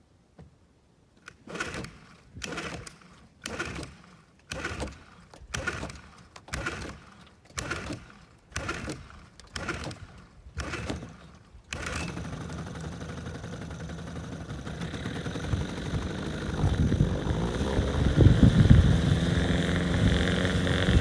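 Small outboard motor being pull-started with the choke on: about ten quick pulls, roughly one a second, before it catches about twelve seconds in and keeps running, its revs rising and wavering near the end.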